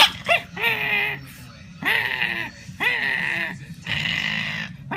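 Puppy yelping twice, then giving drawn-out whining cries about once a second, with a rougher, noisier cry near the end.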